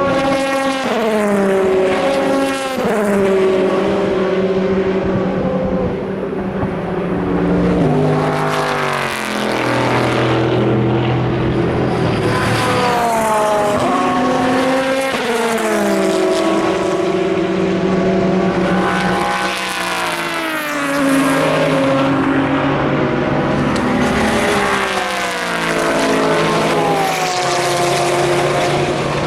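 Endurance racing cars passing at speed one after another, their engines overlapping. Each engine's pitch drops as the car goes by, then climbs again as the cars accelerate through the gears.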